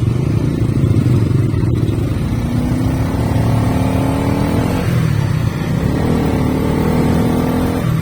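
Motorcycle engines running as the bikes pull away, the engine pitch climbing twice as they accelerate through the gears.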